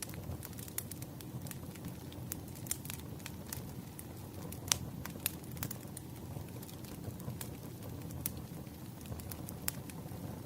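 Fire crackling: irregular sharp pops and snaps, several a second, over a soft steady rumble of burning, with one louder pop about five seconds in.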